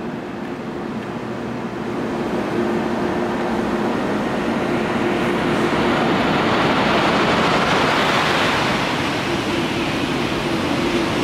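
KTX high-speed train passing through the station at speed: a rushing noise of air and wheels that builds over the first few seconds and then stays loud, with a faint steady hum underneath.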